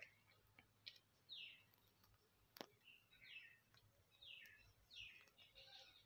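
Faint, short bird chirps, each sliding downward in pitch, coming about once a second, with two sharp clicks in between.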